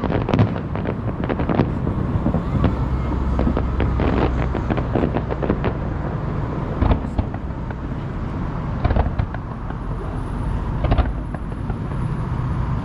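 Aerial fireworks going off: a dense run of cracks and bangs over a steady low rumble, thickest a few seconds in, then single louder bangs spaced a couple of seconds apart.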